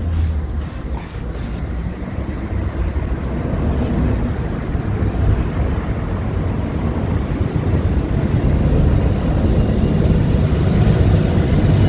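Wind buffeting the microphone: a steady low rumble that grows slightly louder toward the end.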